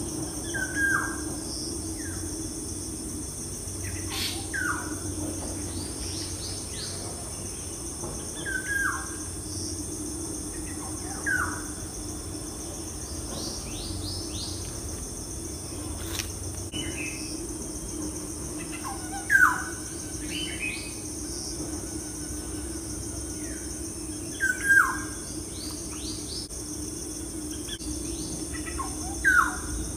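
Short bird calls, single downward-slurred chirps repeating every few seconds, over a steady high-pitched background drone.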